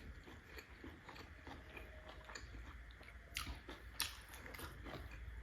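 Close-up chewing and biting of steamed buff momo dumplings: soft, wet mouth clicks, with two sharper clicks about three and a half and four seconds in.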